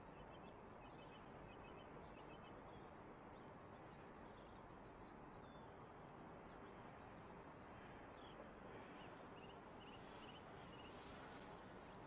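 Near silence: a faint, steady background hum with small birds chirping faintly in short, high clusters, near the start and again in the second half.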